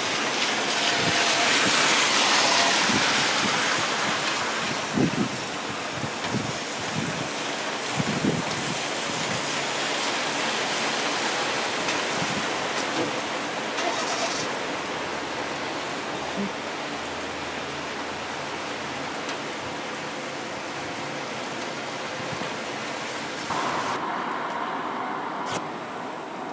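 Thunderstorm downpour falling as a steady hiss, loudest about two seconds in, with a few short dull knocks between about five and eight seconds. Near the end the rain sound cuts off abruptly to a much quieter scene.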